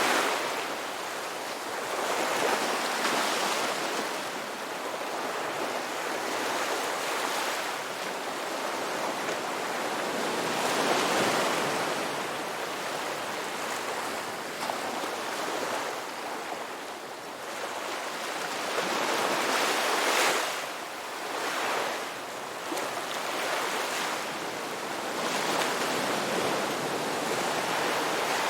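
Ocean waves breaking and washing on a shore, the surf swelling and fading every few seconds, with the strongest wave about two-thirds of the way through.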